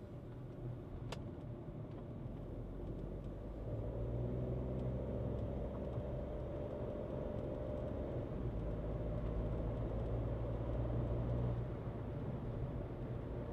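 Skoda Kushaq SUV on the move, its engine droning steadily under road noise. The engine grows louder from about four seconds in, as if under more throttle, and eases off near the end; a single sharp click is heard about a second in.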